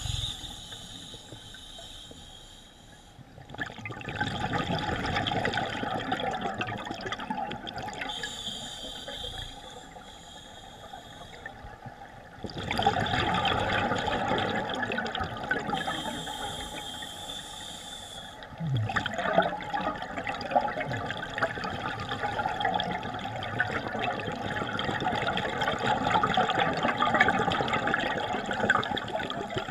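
Underwater scuba breathing through a regulator: long rushes of exhaled bubbles alternate with shorter, quieter hisses of inhalation, about three breaths.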